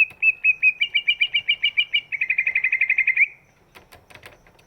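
Green leafbird (cucak ijo) singing: a run of quick repeated chirps speeds into a fast trill and cuts off about three seconds in. A few faint clicks follow.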